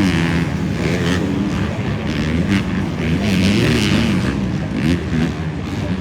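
250cc four-stroke motocross bikes racing around the track, their engine notes rising and falling as the riders rev and back off through the corners.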